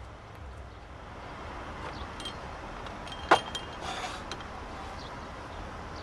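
A single sharp click about three seconds in, with a few lighter clicks and rustles of objects being handled around it, over a low steady background rumble.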